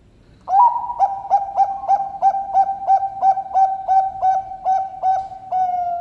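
Zebra dove (perkutut, Bangkok song strain) cooing: an opening note, then an even run of about fourteen short notes at roughly three a second, ending on a long held note.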